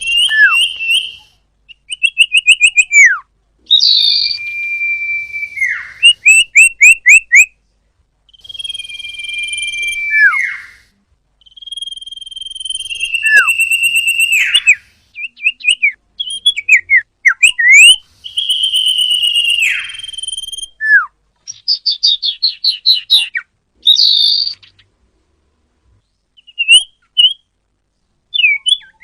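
Common iora (cipoh) singing: clear, loud whistled phrases, each a held note that ends in a steep downward slur, alternating with quick runs of short falling notes, repeated with brief pauses.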